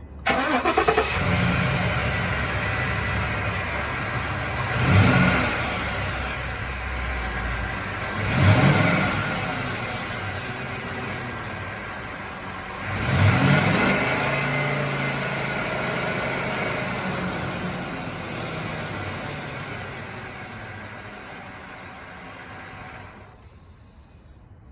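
A 2016 Ford F-250's V8 engine cranking and catching, then idling and being revved three times, each rev rising and falling back to idle. The sound cuts off near the end.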